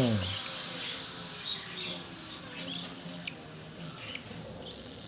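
An electric power tool winding down and stopping, its hiss fading over about two seconds. Faint short high chirps and light clicks follow.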